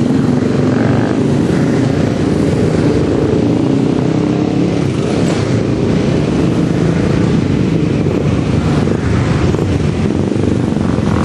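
Supermono racing motorcycles' single-cylinder engines running hard on track, a loud, steady mix of engine noise.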